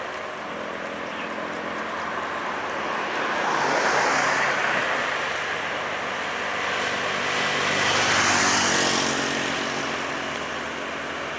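Heavy diesel trucks passing on a highway hill, engines humming with tyre and road noise, getting louder as two vehicles go by about four and eight seconds in.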